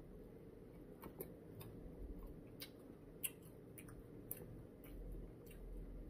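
Faint eating sounds of a man chewing food: irregular small clicks and mouth smacks, about a dozen over several seconds.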